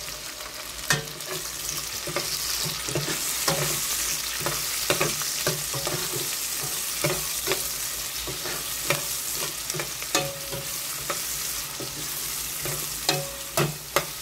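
Sliced onions, garlic, chili and ginger sizzling in hot oil in a stainless steel pot while a spatula stirs them, clicking and scraping against the pot. A few louder knocks of the spatula come near the end.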